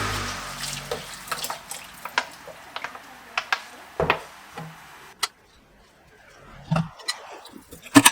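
Dishes being washed by hand at a sink: running tap water that fades out about a second in, then repeated clinks of plates and utensils knocking together, with a louder clank near the end.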